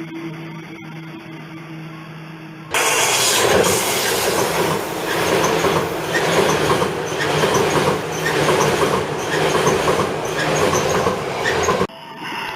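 Seibu Railway electric train running past on the rails, a loud rushing noise with a regular clatter of wheels over rail joints about every two-thirds of a second. Before it, a quieter steady hum with two held pitches, cut off abruptly when the train sound begins.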